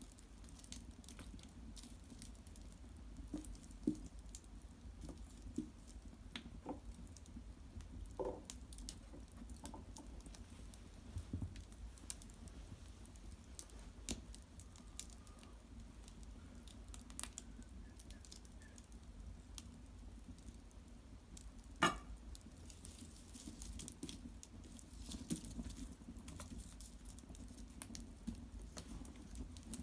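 Cedar-wood fire in an irori hearth crackling faintly, with scattered small pops and ticks and one sharper pop about 22 seconds in.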